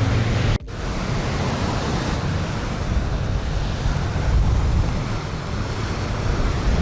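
Wind buffeting the microphone: a steady, rough rumble heavy in the lows, which drops out for an instant about half a second in.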